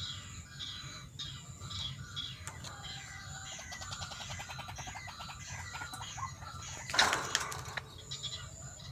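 White-breasted waterhen (ruak-ruak) calls played through a lure speaker: repeated high call notes about twice a second, then a fast rattling call train in the middle. A short loud noisy burst comes about seven seconds in, over a steady low hum.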